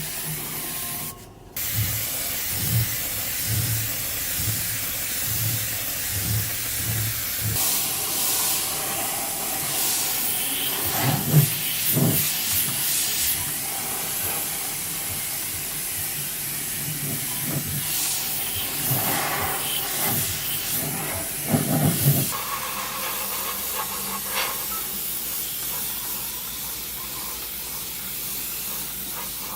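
Steady hissing spray of compressed air or a spray jet, with a brief break a little over a second in and a few louder swells.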